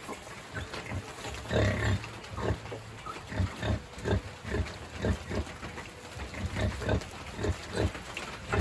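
Pig grunting in a steady run of short, low grunts, about three a second.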